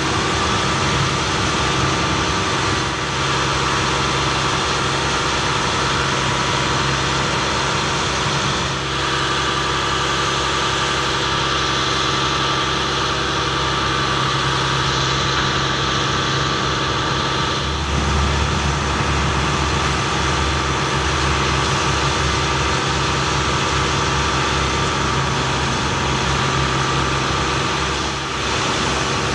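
Ford F750 bucket truck's engine running at a steady idle, with a deeper low hum joining about two-thirds of the way through.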